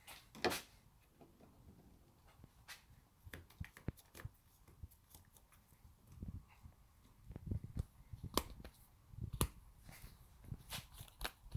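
Scattered clicks, taps and a few low knocks of objects being handled, such as bottles being put away and picked up, with no engine running.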